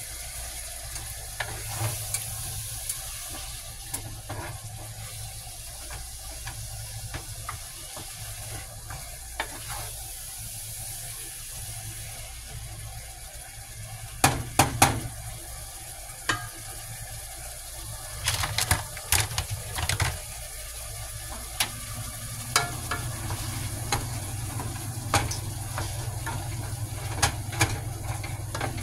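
Food sizzling in a pot on the stove while a spoon stirs it, with a steady hiss throughout. Sharp knocks of the spoon against the pot come in clusters about halfway through and again a few seconds later, with scattered single taps.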